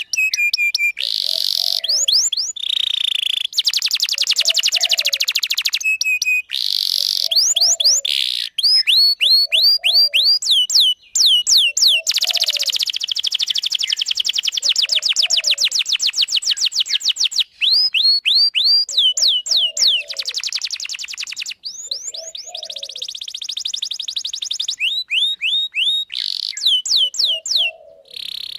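Domestic canary singing a long continuous song: fast buzzy trills and rolls, alternating with runs of quick down-slurred notes, broken only by split-second pauses between phrases.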